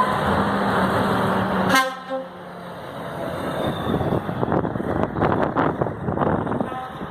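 Trucks driving past, with a short horn toot at the start and heavy engine and road noise. The noise drops sharply about two seconds in, leaving a lower, uneven rumble.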